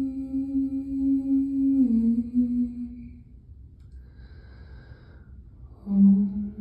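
A voice holds a long sung hum, stepping down in pitch twice before fading out about three seconds in. A soft breath follows, then a new, lower held tone begins near the end.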